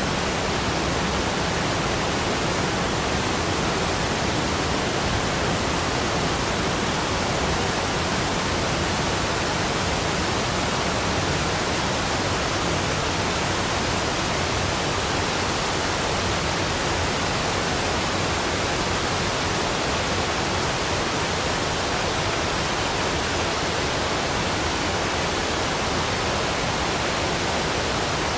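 Waterfall rushing: a steady, unbroken wash of falling water, even and unchanging throughout.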